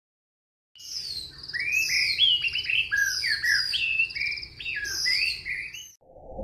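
Birdsong: a quick, varied run of chirps, whistles and short trills, starting about a second in. A low whoosh begins right at the end.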